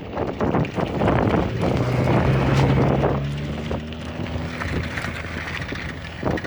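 Wind rushing over the microphone during a bicycle ride, with knocks and rattles from the ride. A low steady hum comes in about two seconds in and fades after the middle.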